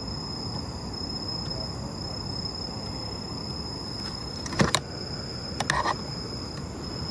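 Quiet night-time background: a steady hiss with a constant high-pitched tone, broken by two short sharp clicks or rustles about four and a half and five and a half seconds in.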